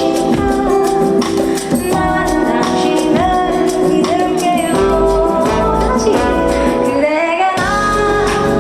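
Live pop music: a woman singing a melody over full band accompaniment, played through a concert sound system. The bass drops out briefly near the end, then comes back.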